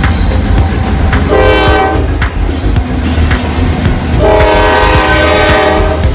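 Locomotive air horn sounding a multi-note chord: a short blast about a second in, then a long blast about four seconds in, over the low rumble of the moving train. The short-then-long pattern is the close of a grade-crossing signal.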